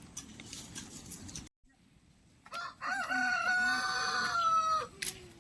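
Rooster crowing once: a single long call of about two and a half seconds that starts about halfway in, holds steady and drops off at the end.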